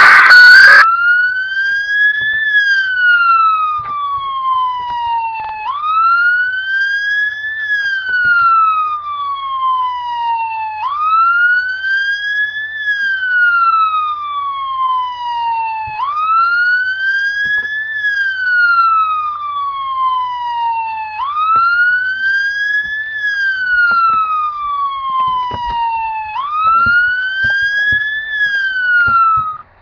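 Electronic emergency-vehicle siren in a slow wail. Each cycle jumps up quickly, climbs more slowly for about two seconds, then falls for about three, repeating roughly every five seconds. It follows a brief loud noisy burst in the first second.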